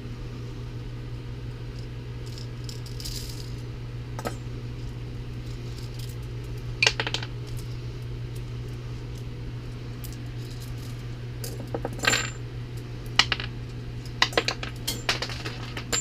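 Metal tools and steel differential parts clinking and clattering on a workbench, sparse at first and then a quick run of clinks in the last few seconds, over a steady low hum.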